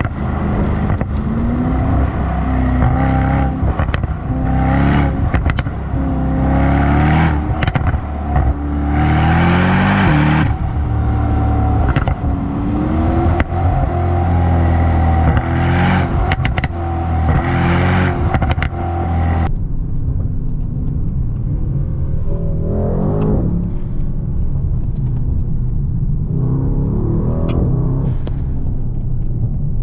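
Brabus Rocket GT 900's twin-turbo V8 accelerating hard through the gears, its pitch climbing and then dropping at each shift. About twenty seconds in it eases off into a lower, quieter run, with a couple of brief rises in revs.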